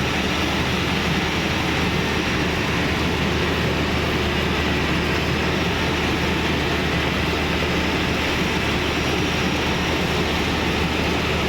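Bimo Plus rice combine harvester running steadily, a constant machine drone that holds at one level throughout.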